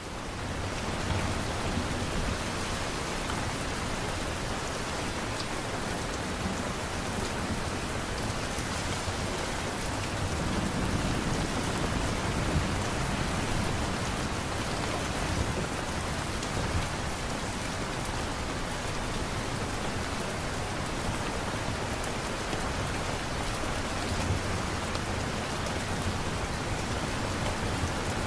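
Steady rain falling: a dense, even hiss of drops on surfaces, with scattered individual drop ticks, swelling up over the first second and then holding steady.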